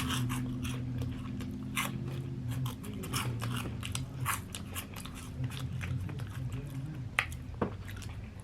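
Close-up chewing and crunching of hot candy balls, with many short, irregular crunches as the candy is bitten and chewed quickly.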